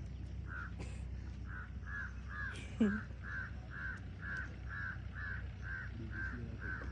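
A bird calling over and over, a short harsh caw repeated evenly about twice a second, over a low steady rumble. About three seconds in, a brief louder sound falls in pitch.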